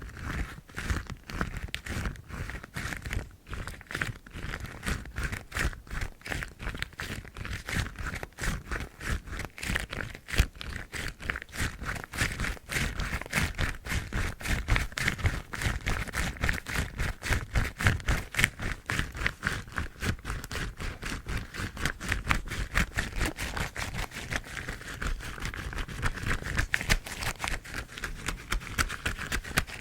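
Yellow household rubber gloves being rubbed and scratched close to the microphone: a dense, fast stream of crinkling, scratchy strokes that keeps going without a break.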